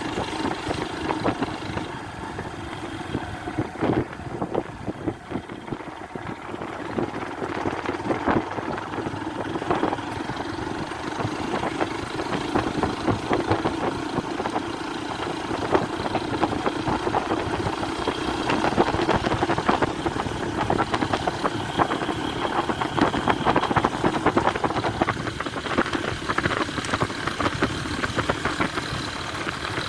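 An engine running steadily, with frequent small rattles and knocks over it.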